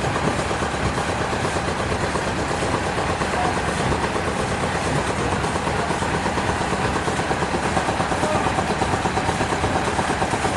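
Sawmill machinery running steadily, with a fast, even pulsing.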